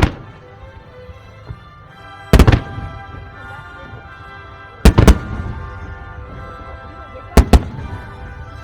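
Aerial firework shells bursting with sharp loud bangs roughly every two and a half seconds, several coming in quick pairs, over steady background music.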